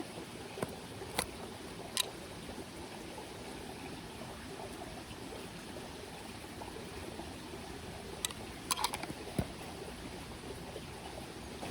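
Small mountain creek running steadily with an even trickling rush. A few light clicks and taps come through it, a couple in the first two seconds and a short cluster near the end.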